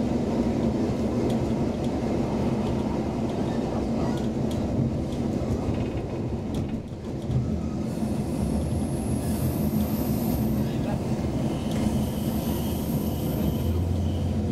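Inside a Roslagsbanan X10p electric train running along the track: a steady rumble of wheels and running gear, with a few light clicks. Faint high-pitched whines come in about halfway through.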